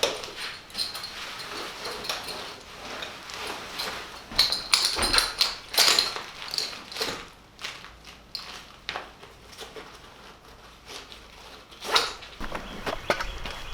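Irregular knocks, taps and clicks of work installing cedar shake siding, with a cluster of louder strikes about four to six seconds in and another near twelve seconds.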